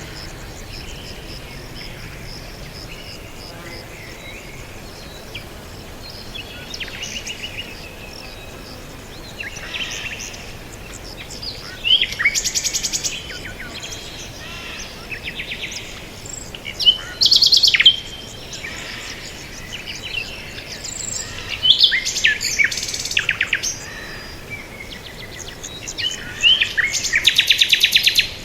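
Several songbirds chirping and singing, with one bird's loud, rapid trilled song repeating about every five seconds, each often led in by quick down-slurred notes.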